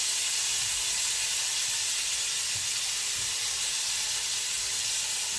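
Kebabs sizzling as they cook, a steady high hiss.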